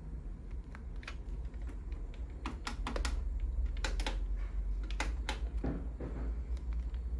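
Irregular clicks and taps, several in quick clusters through the middle, over a steady low hum.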